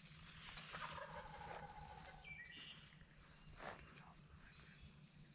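A wild turkey gobbler gobbling, faint, about half a second in. Short high bird chirps follow from about two seconds in.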